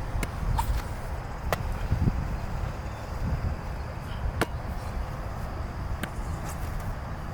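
A handful of short, sharp slaps of a football smacking into hands during throwing drills, spaced unevenly, over a steady low rumble.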